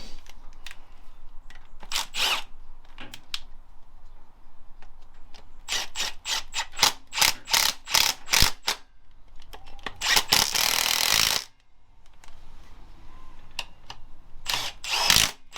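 Bolts being tightened with tools during engine assembly. There is a quick run of short clicking strokes, then a steady spell of about a second and a half, with a few more strokes near the end.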